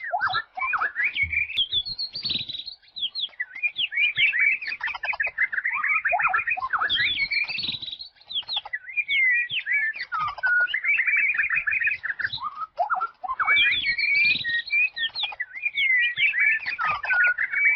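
Wild songbird singing long, varied phrases of quick chirps, rapid trills and sweeping whistles, with brief pauses between phrases.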